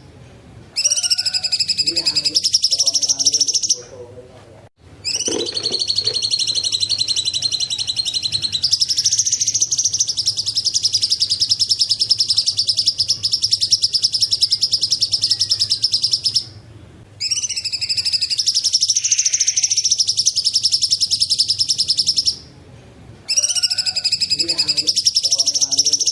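Cucak cungkok songbird calling in long, rapid, high trills, each lasting several seconds and the longest about eleven seconds, separated by short pauses.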